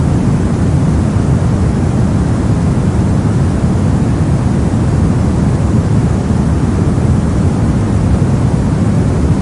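Brown noise: a steady, even rumbling hiss, heaviest in the low end and fading toward the highs, with no change throughout.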